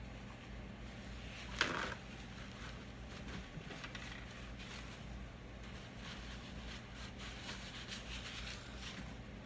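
Quiet kitchen handling of food and utensils: a sharp knock about one and a half seconds in, then soft scattered clicks and rubbing, over a steady low hum.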